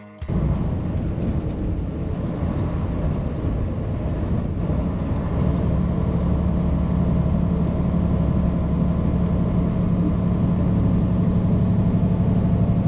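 Freightliner Cascadia straight truck's diesel engine running steadily at road speed, with a low drone and constant road and tyre rumble that grow slightly louder about halfway through.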